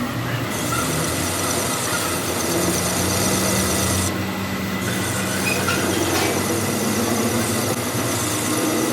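Workshop machinery running steadily, a dense mechanical noise with a thin, steady high whine and a low hum.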